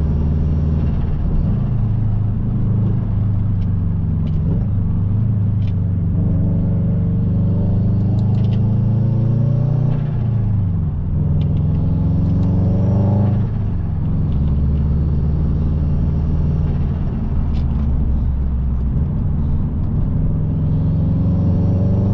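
Subaru Impreza WRX's turbocharged EJ20 flat-four engine accelerating hard. It rises in pitch twice, with gear changes about ten and thirteen seconds in, holds steady for a while, then climbs again near the end.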